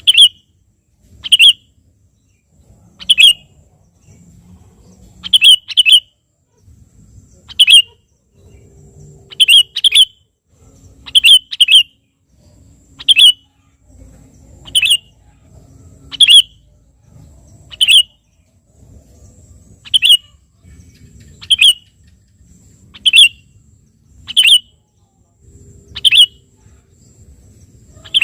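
Sooty-headed bulbul (kutilang) giving short, sharp, high calls, singly or in quick pairs, about every second and a half: a male calling out to a rival.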